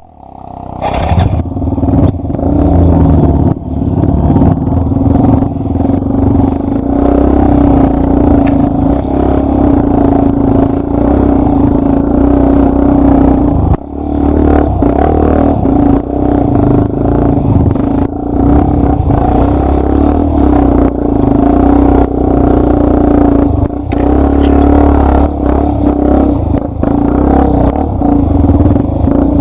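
Yamaha Lander 250's single-cylinder four-stroke engine running steadily as the bike rides over rough ground, with frequent knocks and rattles. The engine briefly drops off once about halfway through.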